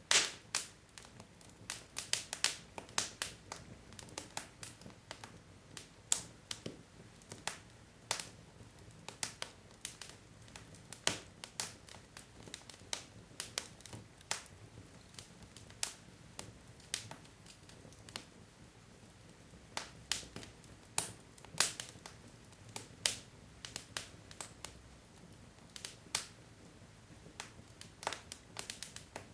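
Wood logs burning in a fireplace: irregular sharp crackles and pops, sometimes in quick clusters, over a faint low hiss of the fire.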